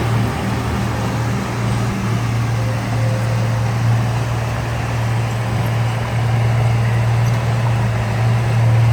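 Heavy diesel engine of earthmoving machinery running steadily at a constant speed, a strong even low hum.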